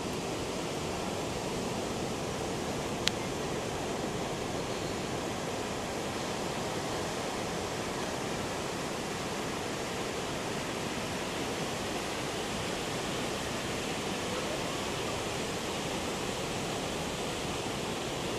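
Steady noise of heavy ocean surf breaking on the beach under a large typhoon swell, with a single sharp click about three seconds in.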